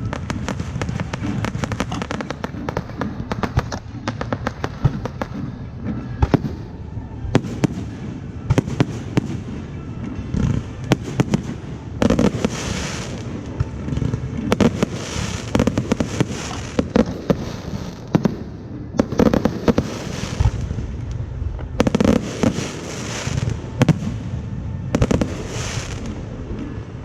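Fireworks going off in a dense, continuous barrage of sharp bangs and pops. In the second half, bursts of hissing crackle come every two or three seconds.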